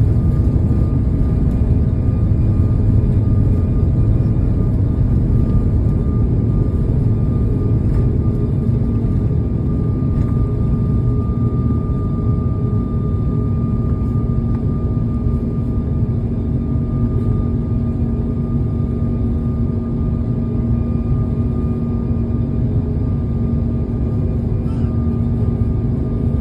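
Airbus A340-600's four jet engines at takeoff or climb thrust: a loud, steady deep rumble with a constant hum, easing a little over the second half.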